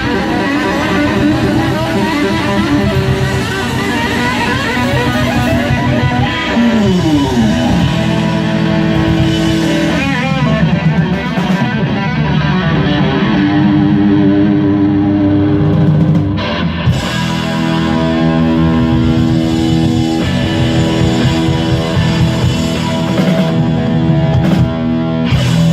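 1960 Gibson Les Paul Standard electric guitar playing rock lead over bass and drums, with sustained notes and a long downward slide about seven seconds in.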